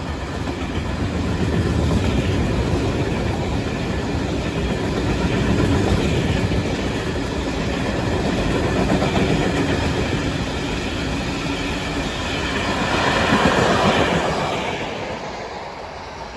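Freight train of ballast hopper wagons rolling past, a steady clatter of wheels on rails. It is loudest about three-quarters of the way through, then fades as the tail of the train passes.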